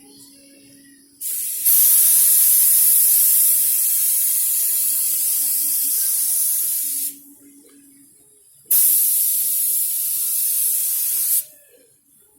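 Pneumatic paint spray gun spraying thick primer: two long hissing passes, the first about six seconds, the second about three, each starting and stopping abruptly as the trigger is pulled and released.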